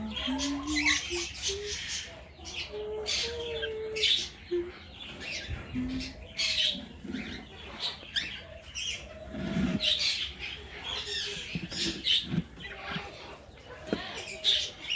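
Parrots in an aviary squawking and chirping in short, repeated calls. A low wavering tone climbs in pitch during the first few seconds.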